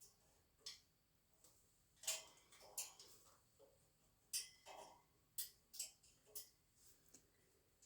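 An African grey parrot making soft whispered clicks and hissing sounds, a dozen or so short ones in an irregular run.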